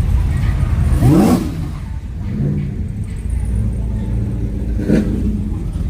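Car engine running with a heavy low rumble and revved once quickly about a second in, its pitch sweeping up.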